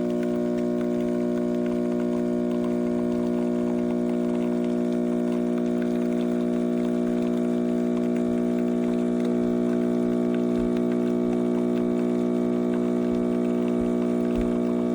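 Espresso machine's pump running with a steady, even hum, with water trickling through.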